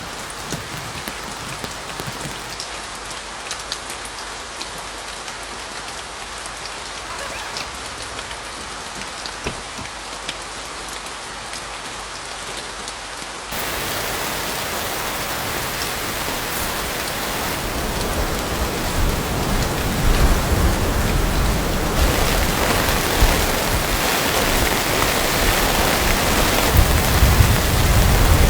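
Heavy rain falling: a steady hiss with scattered drop ticks. About halfway through it changes abruptly to a louder, denser downpour, and a low rumble builds beneath it toward the end.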